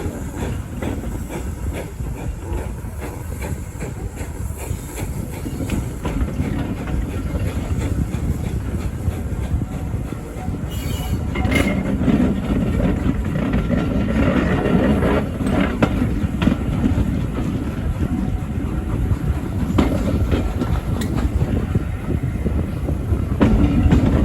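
Passenger carriage of a heritage steam train running along the track: a steady rumble with wheels clicking over the rail joints, getting louder about halfway through.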